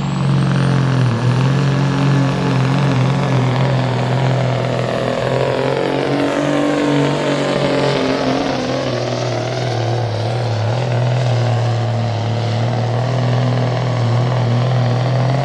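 Big-rig diesel engine held at full throttle under load during a sled pull, with a turbo whistle rising early on. It holds a steady pitch, sweeps past at mid-run and cuts off abruptly at the end of the pull.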